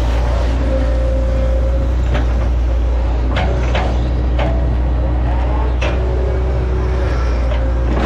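Hitachi ZX110 excavator's diesel engine running steadily under hydraulic load, with a thin hydraulic whine and about half a dozen sharp knocks and cracks at irregular moments.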